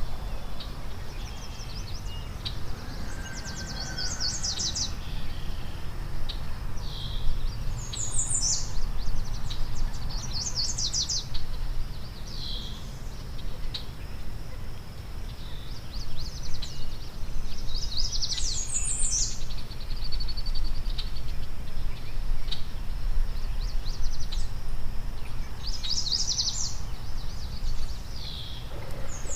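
Songbirds singing: short, high, rapidly trilled phrases repeat every few seconds over a steady low rumble.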